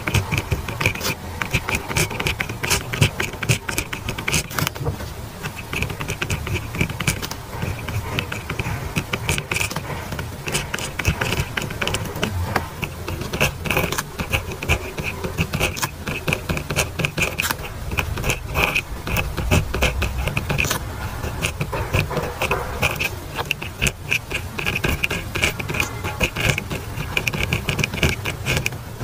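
Handwriting on paper: a pen tip scratching through a steady run of quick strokes, broken by a few short pauses.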